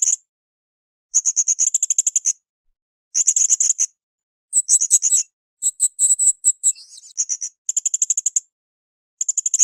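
Blue-crowned hanging parrot (srindit) calling: a string of very high-pitched rapid trills, each a burst of about ten sharp notes a second lasting under a second, with short pauses between. Near the middle one phrase shifts between two pitches.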